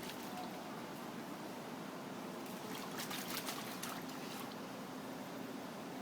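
Trickling and small splashes of rainwater pooled in a stroller as a child dips her face and hair into it, with a cluster of small splashes in the middle.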